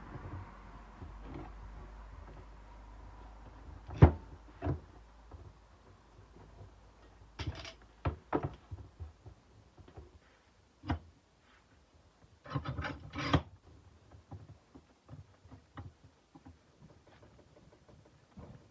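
Scattered knocks, clicks and brief rubbing from handling a kukri blade and sanding gear on a work surface: one sharp knock about four seconds in, a few more knocks after it, and a short burst of rubbing and clicking past the middle. A faint steady hum fades out over the first few seconds.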